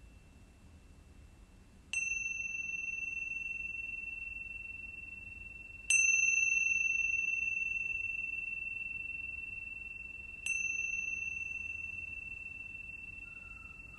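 Meditation chime struck three times, a few seconds apart, each strike a single clear high ring that slowly fades, the second the loudest. It marks the end of a silent mantra-meditation period.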